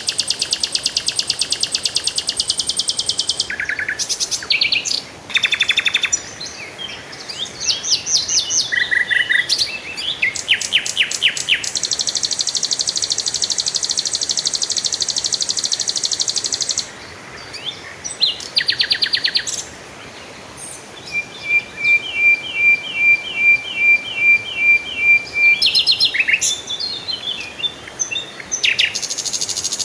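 Assorted songbirds singing and chirping, one call after another: fast high trills, short sweeping chirps, and a stretch where one bird repeats a short note about twice a second.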